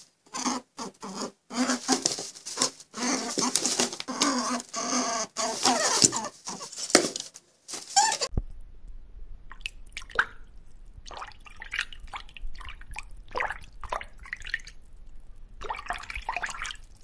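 Rabbit chewing grass, a dense crackly crunching for about the first eight seconds. It then gives way abruptly to aquarium water sounds: scattered drips and bubbling over a steady low hum.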